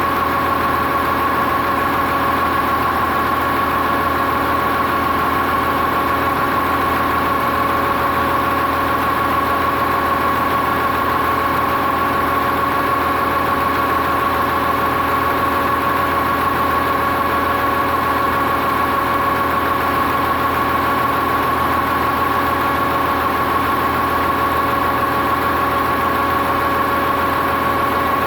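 Tractor engine idling steadily, with a steady high whine over its low running hum.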